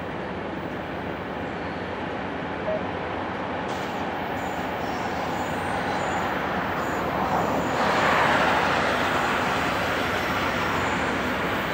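Distant approaching freight train led by GE Dash 8 diesel locomotives: a steady low rumble growing slowly louder. About eight seconds in, a louder rush swells and fades as a car passes on the road beside the line.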